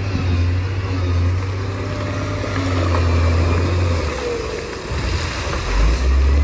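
Bulldozer's diesel engine running under load over a noisy wash of churning mud and water. The engine note eases about four and a half seconds in, then comes back stronger at a lower pitch near the end.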